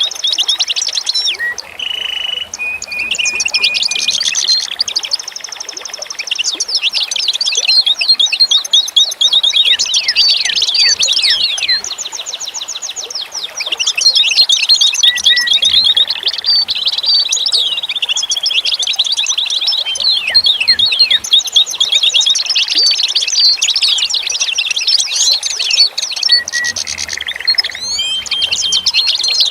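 A dense chorus of songbirds chirping and trilling, with many quick downward-sweeping notes and short repeated trills overlapping continuously.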